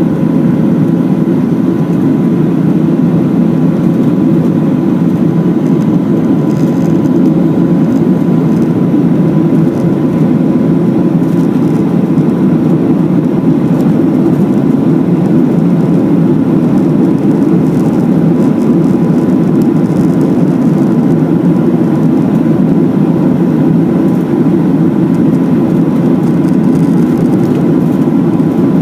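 Boeing 737-700 cabin noise in flight: a loud, steady roar of the jet engines and airflow, with a faint steady whine above it.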